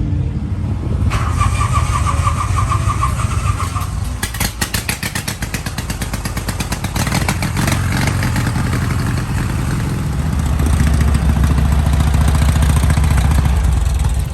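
Motorcycle engines running close by, with a run of rapid pulses about four seconds in and the engine sound growing louder from about ten seconds in.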